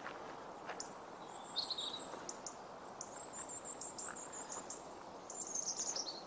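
Small songbirds singing: thin, high chirps and quick runs of notes, with a fast falling trill near the end, over faint outdoor hiss.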